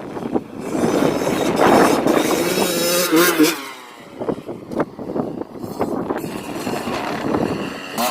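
Dirt bike engine revving as it rides past close by, loudest about two to three seconds in, its pitch dropping and the sound fading about three and a half seconds in. Engine noise then picks up again.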